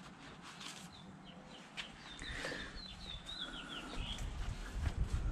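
A bird chirping in a quick run of wavy calls about halfway through, over faint rustling and scraping of a shop towel wiping a metal flywheel. A low rumble rises near the end.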